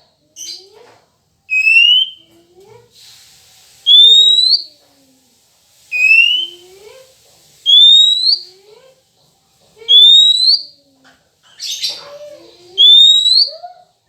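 Clear rising whistle notes repeated about every two seconds, each gliding upward for just under a second, with two short harsh chatters near the end.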